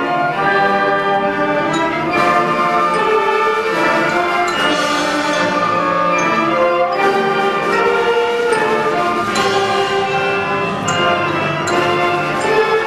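School band playing a piece live: full, sustained chords with changing notes and no break.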